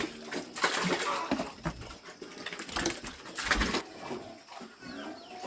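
Chickens clucking, with two loud bursts of rustling noise, the first about half a second in and the second about three seconds in.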